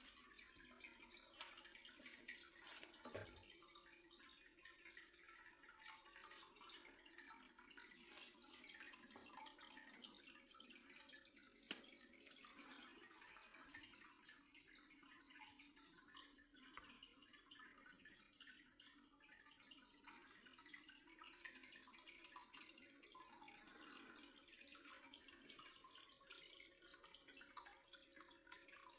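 Near silence with faint, irregular water dripping and trickling, over a faint steady low hum.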